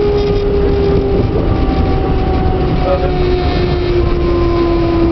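Regional electric train heard from inside the carriage: steady rumble of wheels on track with a motor whine that slowly falls in pitch as the train slows toward a station platform.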